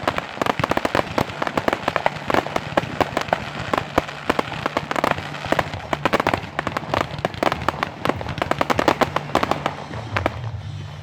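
Fireworks going off: a long, dense run of sharp, irregular pops and crackles, like a string of firecrackers, thinning out about ten seconds in.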